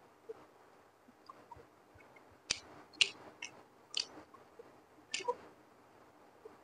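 Close-miked chewing of a mouthful of fried rice, with five or six sharp, wet mouth clicks and smacks from about two and a half to five seconds in.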